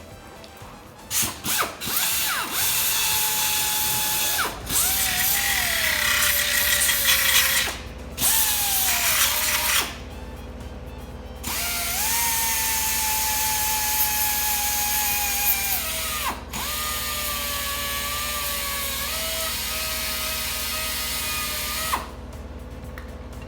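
Handheld electric power tool running in several bursts, about four, with short stops between them. Its motor whine sags in pitch as it comes under load and holds steady between the sags.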